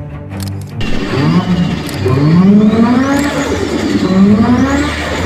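Car engine revving hard several times, its pitch climbing with each rev, with a faint high whine that rises and falls twice.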